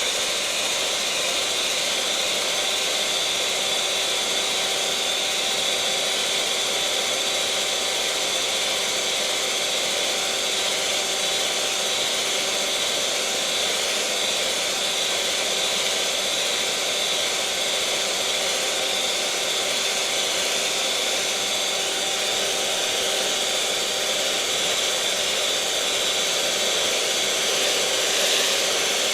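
Electric mixer motor running continuously at a steady speed: an even, high-pitched whirring hum with a constant whine over a bed of hiss.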